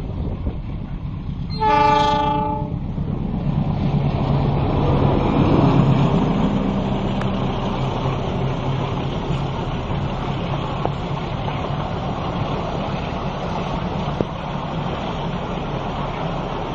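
A train horn sounds one blast of about a second. The train then rumbles past, its diesel engine and wheels loudest about five seconds in and running steadily after that.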